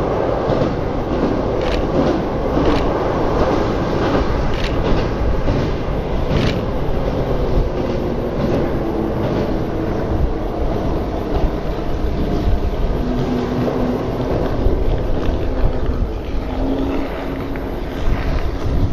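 Single-car diesel railcar running across a long steel girder railway bridge, heard from a distance as a steady rumble, with sharp clacks of the wheels over the rail joints in the first several seconds.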